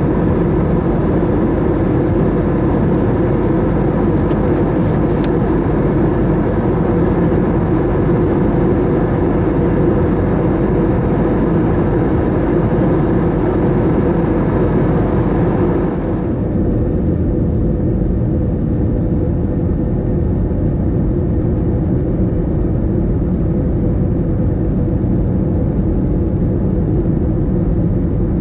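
Airbus A321 airliner noise heard from the cabin: a steady engine and airflow rumble with a faint hum in it. About sixteen seconds in, the higher hiss drops away abruptly while the low rumble carries on.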